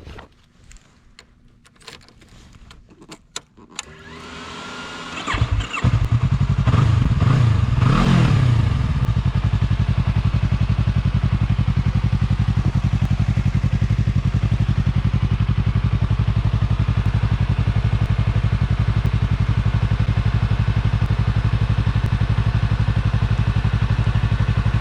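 2015 Yamaha YZF-R3 321cc parallel-twin engine, its stock exhaust removed, being started: a few clicks, then the engine catches about five seconds in, revs up and down briefly, and settles into a steady idle.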